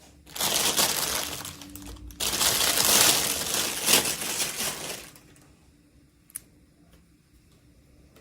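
Plastic packaging crinkling as it is handled, in two long stretches, then a single small click about six seconds in.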